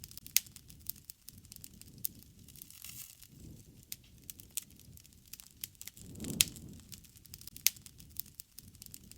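Wood campfire crackling, with irregular sharp pops and snaps scattered throughout. Under them is a low rushing sound that swells about six seconds in.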